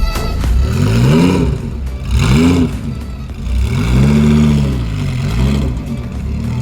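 Car engine revved in four blips, each rising and falling in pitch, the longest about four seconds in.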